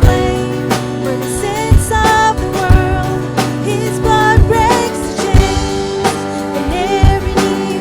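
Live worship band playing with a singer, drums hitting about once a second.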